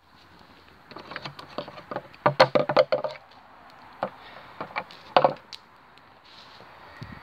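A run of sharp knocks and clatters, some with a brief ringing tone, in two bursts: a dense one about a second in and a shorter one around four to five seconds in.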